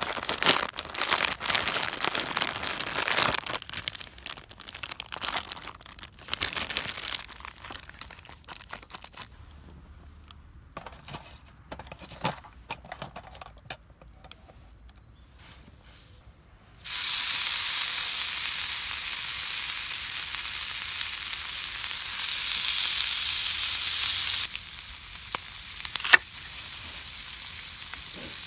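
Scattered crackles and clicks, then a sudden, steady sizzle of food frying in a hot pan that starts just past halfway and eases to a quieter sizzle near the end.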